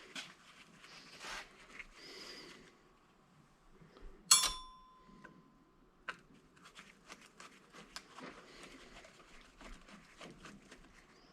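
Metal clank about four seconds in, with a short ringing tone after it, as a metal part or tool is set down or dropped while an old electric angle grinder is dismantled for scrap. Before and after it come quiet rustling and many small clicks and taps from the parts being handled.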